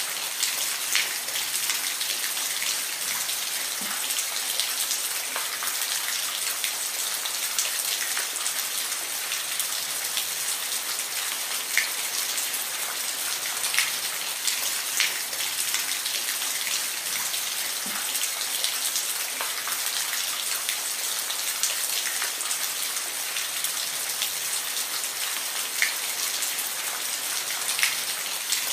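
Steady rain falling on a surface, a constant high hiss with individual drops ticking now and then.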